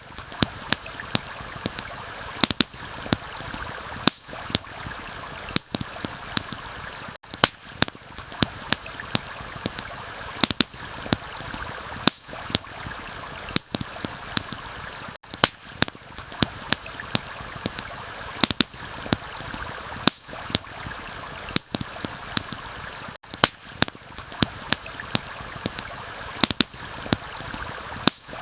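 Campfire crackling with frequent sharp, irregular pops over the steady rush of a flowing stream.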